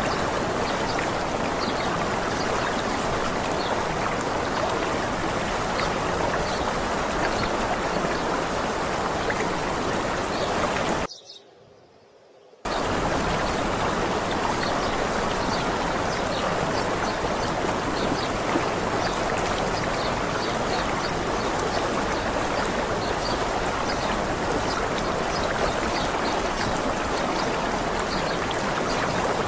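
Steady rush of running water from a waterfall. It cuts out abruptly to near silence about eleven seconds in for under two seconds, then resumes at the same level.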